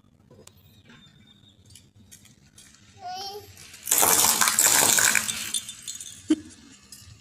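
Brittle, crunchy objects crushed under a car tyre, giving a loud crackling crunch about a second and a half long that fades out. A short squeak comes just before it and a single sharp click follows.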